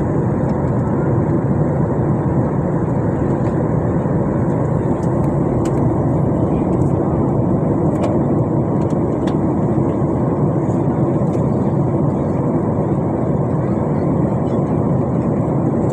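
Steady rushing noise of jet engines and airflow heard inside an airliner cabin in flight.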